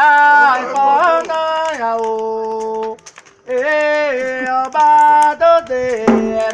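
Singing of a Yoruba Candomblé chant, long held notes sliding between pitches, with a brief break about three seconds in.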